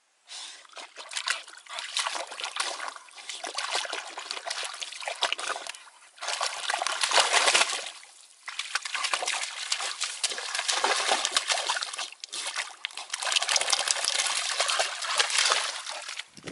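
Water and mud in a drainage ditch splashing and trickling, with brief lulls about six, eight and twelve seconds in.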